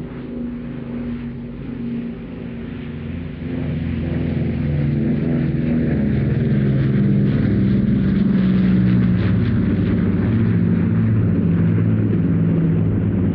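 Battle of Britain Memorial Flight formation of Second World War piston-engined aircraft, led by an Avro Lancaster, flying past with a deep multi-engine propeller drone. The drone swells and is loudest a little past the middle, then holds.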